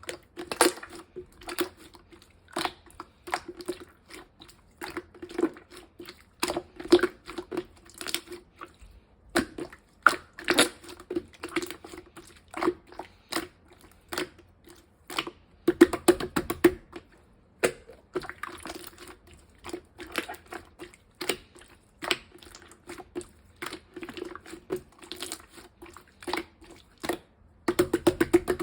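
Orange clear slime being squeezed and pressed by hand, giving irregular sticky clicks and pops, with denser runs of crackling about sixteen seconds in and near the end.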